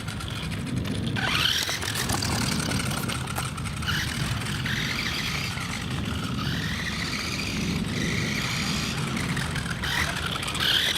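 Toy-grade John Deere Monster Treads RC tractor's small electric drive motor and gears running on a 7.4-volt LiPo, whining with the pitch rising and falling as the throttle is worked, over a steady low rumble.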